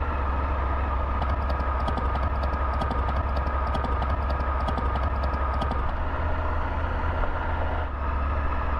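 Triumph Tiger 900 GT's three-cylinder engine running steadily while the motorcycle is ridden, a constant low rumble with a steady whine above it. A run of light, rapid clicks comes through in the first half.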